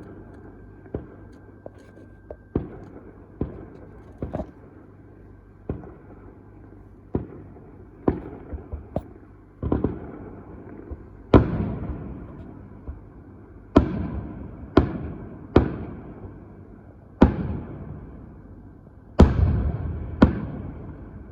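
Fireworks going off in a long irregular series of sharp bangs, around twenty, each trailing off in an echo. The bangs grow louder and heavier from about halfway through.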